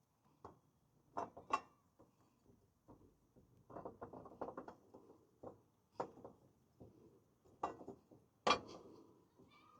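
Hand tools at work on a riding mower's blade: a run of rapid ratcheting clicks around the middle, among scattered sharp knocks and clinks, the loudest near the end.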